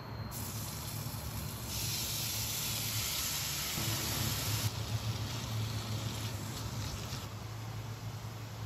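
Chopped kimchi frying in hot oil in a wok: a loud sizzle from about two seconds in, easing to a quieter sizzle about five seconds in as it is stirred. A steady low hum runs underneath.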